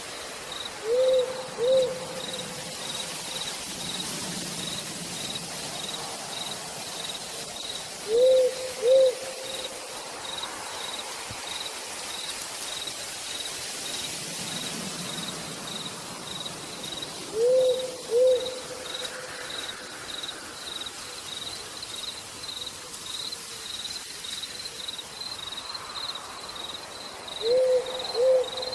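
An owl hooting in pairs of two short hoots, four times, about every nine seconds, over crickets chirping in a steady high pulse about twice a second and a soft hiss of rain.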